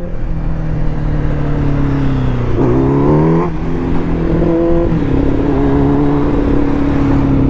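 A 1000cc sport motorcycle engine running while the bike is ridden, with wind rushing over the microphone. About two and a half seconds in, the revs climb for a second, then drop sharply at a gear change and settle to a steady drone.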